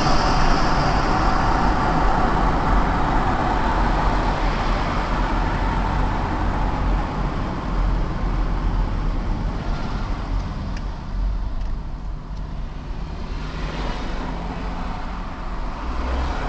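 A car driving in city traffic: steady road, tyre and engine noise with a low rumble, slowly getting quieter.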